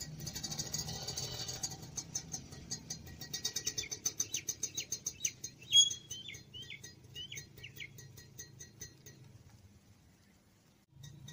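Bird chirping: a run of short chirps in the middle, the loudest near six seconds, over a low steady rumble that fades out near the end.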